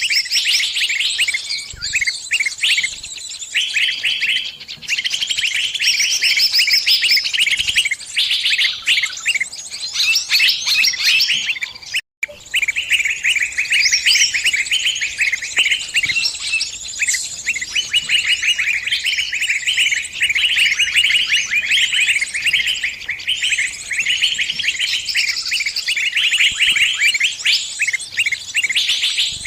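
Small bird's distress calls: a trapped bird's cries for help to its flock, a dense, unbroken run of rapid high chirps. The sound cuts out for an instant about twelve seconds in.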